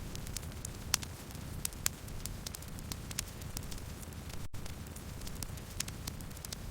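Campfire burning: a steady low rumble with scattered sharp crackles and pops, and a split-second gap in the sound about halfway through.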